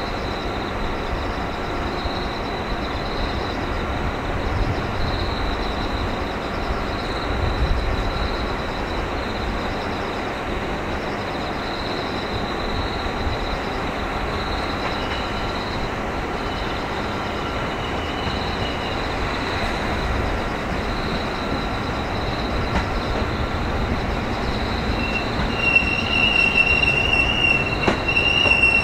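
JR 205 series electric train approaching with a low steady rumble, under regular pulsing chirps of insects in the trackside grass. About 25 seconds in, a high, steady wheel squeal starts and grows louder as the train comes into the station.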